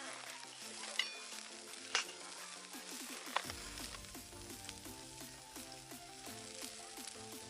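A steady sizzling hiss with three sharp crackling pops, about one, two and three and a half seconds in, under soft background music.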